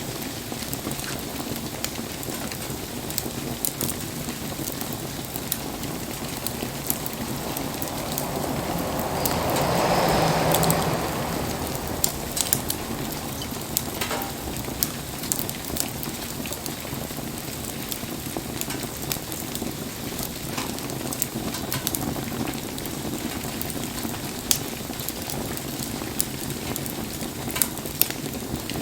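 Wood bonfire crackling and popping over a steady hiss of falling rain. About a third of the way through, a louder hiss swells up and dies away again.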